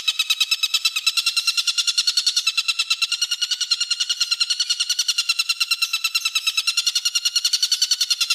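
A songbird's rapid trill, of the sharp 'tembakan' or 'besetan' kind used in bird-training tracks: a fast, perfectly even string of high notes at about a dozen a second, held without a break.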